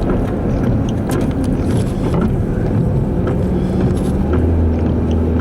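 Inside a moving car: steady road and engine rumble, with a low steady hum joining about four seconds in.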